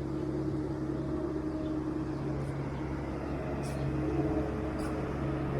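Steady low mechanical hum, like a running engine, with people's voices in the background.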